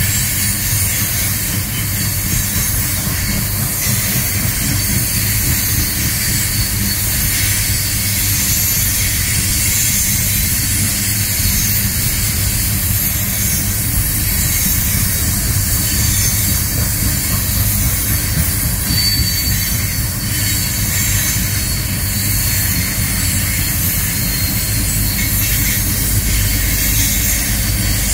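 Coal train hopper cars rolling steadily past at close range: a continuous rumble and rattle of steel wheels on rail, with a thin high wheel squeal that stands out briefly a little past the middle. The low rumble swells near the end as the BNSF locomotives draw level.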